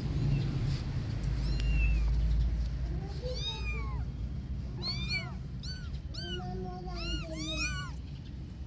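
Kittens meowing, a rapid string of short high-pitched meows that starts about three seconds in, some overlapping, over a steady low rumble.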